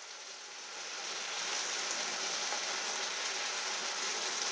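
Beef mince sizzling in a frying pan: a steady hiss that grows a little louder over the first second or so, then holds.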